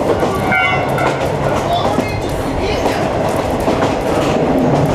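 Locomotive-hauled 50-series passenger coach running along the track, its wheels rumbling and clattering over the rail joints, heard from inside the coach, with brief faint high squeals in the first second or so.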